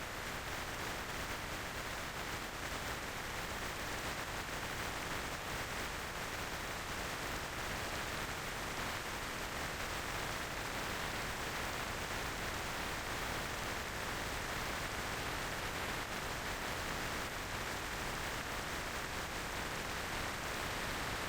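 Steady rush of wind and road noise on a motorcycle rider's microphone while riding at speed, an even hiss with no clear engine note.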